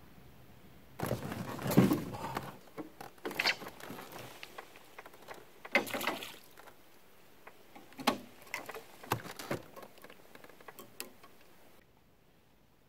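Irregular bursts of rustling and patter with a few sharp clicks and taps, loudest about two seconds in, stopping abruptly near the end.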